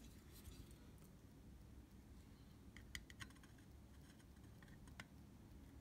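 Near silence, with a few faint small clicks and taps of small tools and a cardboard strip being handled, about half a second in, around three seconds in and again at five seconds.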